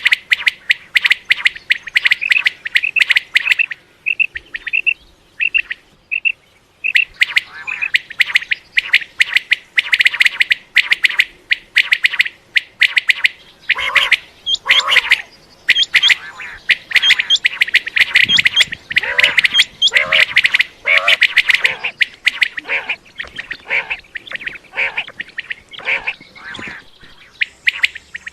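Common quail calling: a rapid, continuous series of short high notes. Through the middle stretch it is mixed with harsher, lower calls.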